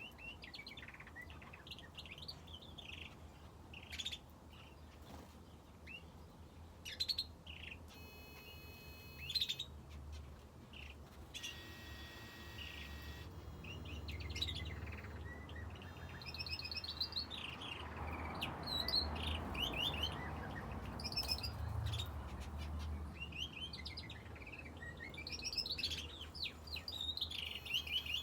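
Aviary finches and a canary chirping and calling, many short calls overlapping throughout, over a low steady hum.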